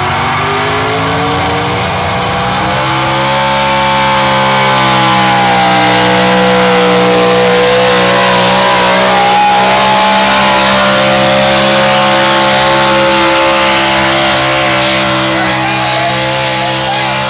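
Monster truck engine revving up over about three seconds, then held at a high, steady pitch for around ten seconds before easing off near the end.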